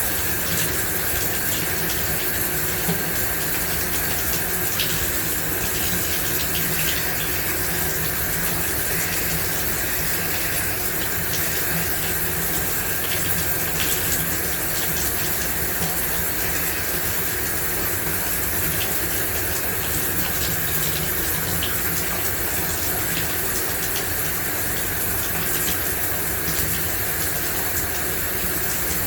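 Shower running steadily, water spraying and splashing, with faint scattered drip ticks.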